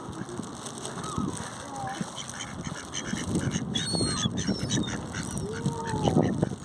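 Ducks quacking and geese honking in a flock of feeding waterfowl, with a few longer, drawn-out calls near the end and thin high chirps above them.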